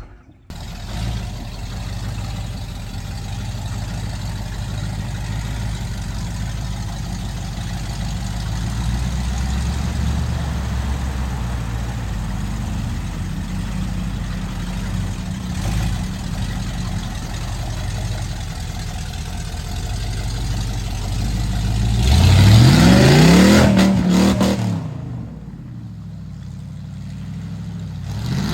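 Ford mud truck engine running with a steady low rumble, then revved hard about three-quarters of the way through: the pitch climbs, holds for a second or two and drops back, and starts to climb again at the very end.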